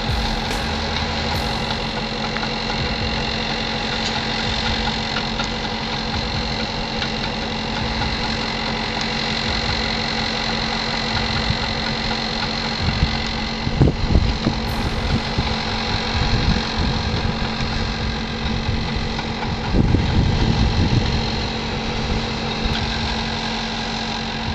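Heavy machinery's engine running steadily, with a few louder low thuds and rumbles partway through.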